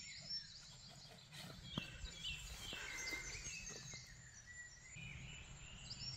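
Small birds chirping and twittering, many short high notes, over a low steady rumble, with a few faint clicks.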